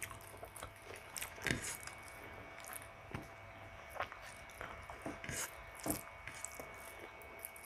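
Quiet close-miked eating sounds: soft chewing and small wet mouth clicks of someone eating saucy pork ribs and rice by hand. Sharper clicks come now and then, most clearly about one and a half, four and six seconds in.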